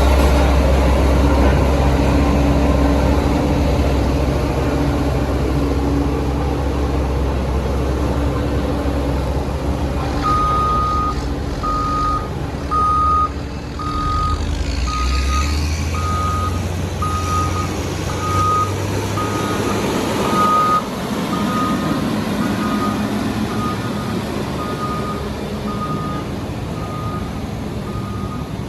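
Heavy diesel construction machinery running with a deep engine drone, and a reversing alarm that starts beeping about a third of the way in, one steady-pitched beep roughly every second, as a machine backs up. The engine drone drops away about halfway through while the beeping goes on.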